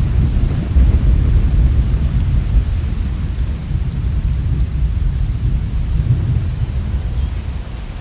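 Heavy rain falling steadily under a deep rumble of thunder that slowly dies away toward the end.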